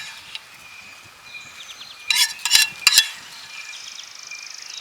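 A metal utensil clinking and scraping against a cooking pan, with a cluster of sharp ringing clinks about two to three seconds in.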